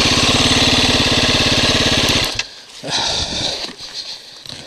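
KTM dirt bike engine running at low revs with a steady firing beat, then cutting out abruptly a little over two seconds in. A short, fainter noise follows about a second later.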